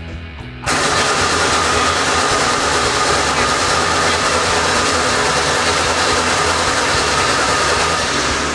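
A drift car's turbodiesel engine running, with a steady low drone. About a second in, a loud, even hiss with a high steady tone suddenly joins it and holds.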